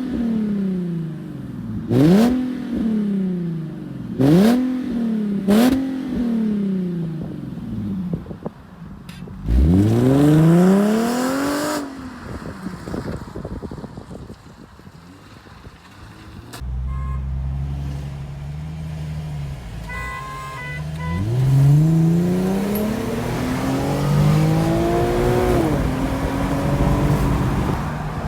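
Straight-piped Infiniti G37's 3.7-litre V6 exhaust being blipped sharply four times in quick succession, then given one longer rev. It then settles into a low steady note and climbs again in a slower, drawn-out rise in pitch.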